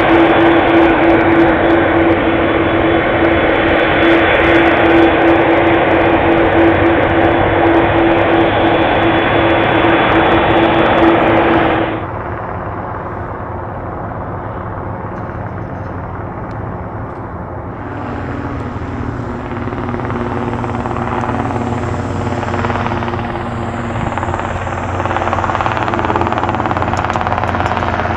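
Boeing 787 Dreamliner jet engines running loud, a roar with a steady hum in it. About twelve seconds in it drops suddenly to a quieter engine noise, which swells again over the last ten seconds.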